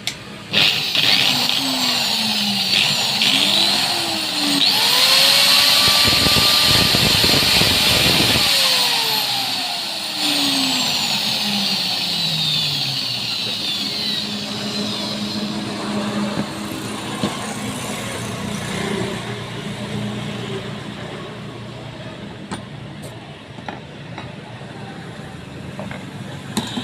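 Electric angle grinder running on test after new bearings have been fitted. Its motor whine rises several times and falls away again.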